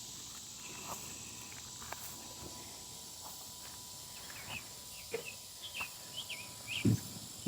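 Quiet outdoor garden ambience: a faint steady hiss with a few short, high chirps in the second half, and a soft thump just before the end.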